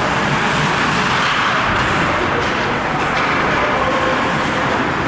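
Steady, loud ice rink ambience during a hockey game: a continuous roar of crowd and game noise with a few faint sharp clicks about two seconds in.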